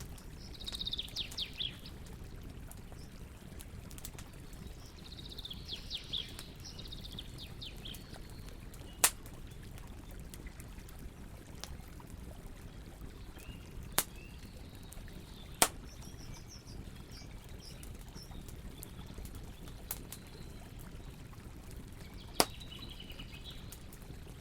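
Campfire burning, with a handful of sharp pops from the wood over a steady low noise. A bird chirps in short trilling bursts near the start, about six seconds in, and again near the end.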